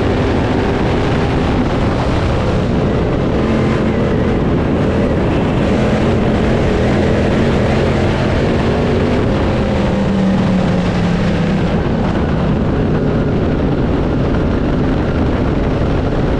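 Crate late model dirt race cars' V8 engines running hard at racing speed, a loud continuous engine noise whose notes shift up and down a little as the cars circle the track.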